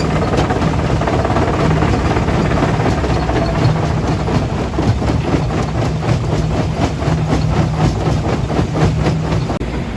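Heavy quarry machinery running: a steady low diesel engine drone under constant rattling and knocking of rock and metal, with a brief drop-out near the end.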